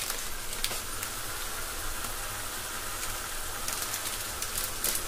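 Onion-tomato masala with ground spices sizzling steadily in hot oil in a kadai, with a few light clicks near the end.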